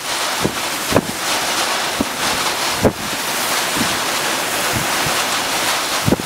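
Storm wind and rushing water making a steady, loud noise, with gusts thudding against the microphone several times.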